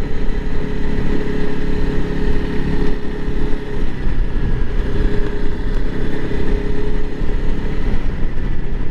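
Honda CRF300L Rally's single-cylinder engine running steadily while the bike is ridden at an even pace, with wind rushing over the microphone.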